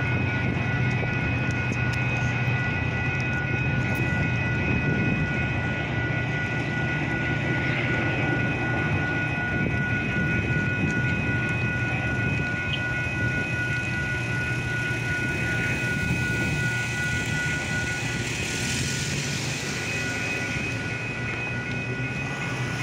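Metra bilevel commuter train rumbling through a railroad grade crossing while the crossing's warning bells ring steadily. The bells stop near the end as the crossing gates lift.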